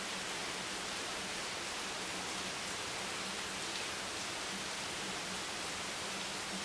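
Steady rain, an even, dense hiss without distinct individual drops, with a faint low hum coming and going underneath.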